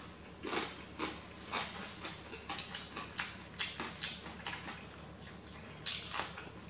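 A person chewing a mouthful of noodles close to the microphone, short wet mouth clicks about twice a second, pausing for about a second before going on.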